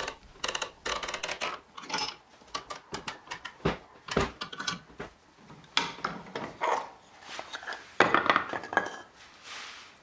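Irregular clinks, clicks and knocks of metal parts and tools being handled on a workbench. There is a brief ringing clink about two seconds in and two heavier knocks around the four-second mark.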